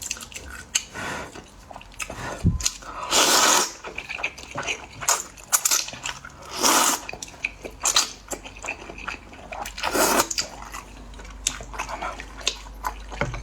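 Thick rice noodles (mixian) slurped from hot broth: three long slurps about three and a half seconds apart, with chewing, small wet clicks and drips between them.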